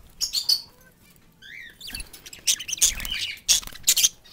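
Caged pet birds chirping, a busy run of short high chirps and scratchy chatter mixed with sharp clicks, loudest in the second half.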